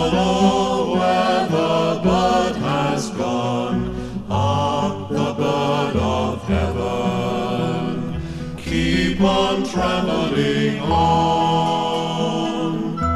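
1970s British folk song: several voices singing together over instrumental backing with a bass line.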